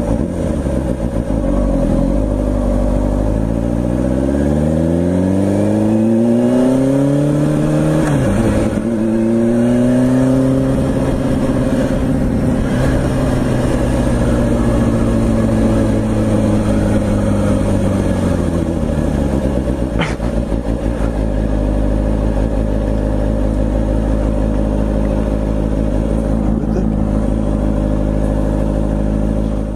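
Motorcycle engine accelerating hard, its pitch climbing for several seconds, dropping briefly at a gear change about eight seconds in and climbing again, then easing off and slowly falling to a steady low run for the last ten seconds. A single sharp click about twenty seconds in.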